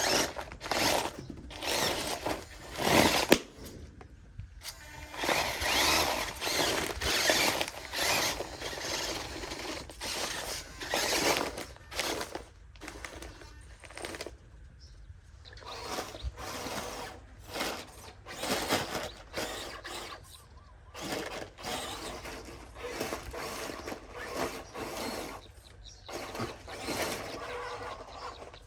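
Electric RC off-road truck's motor and gearbox whirring in stop-start bursts, a second or two each, as it is driven over dirt obstacles.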